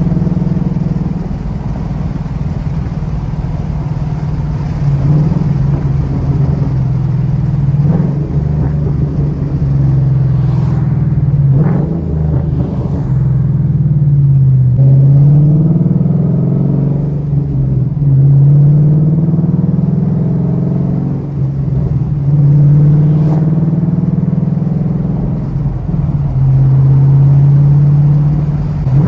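2013 Ford Mustang GT's 5.0-litre V8 with its exhaust resonators cut out (factory headers, cats and H-pipe, aftermarket axle-backs), running loud, its exhaust note rising and falling in pitch several times as the throttle is opened and eased off.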